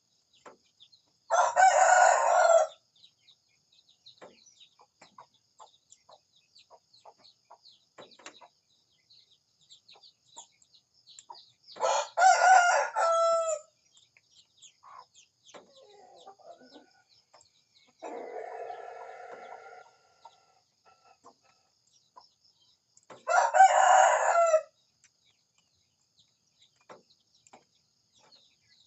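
A rooster crowing three times, about 11 seconds apart, each crow lasting over a second. A quieter, lower call comes about two-thirds of the way through, with faint small-bird chirping behind.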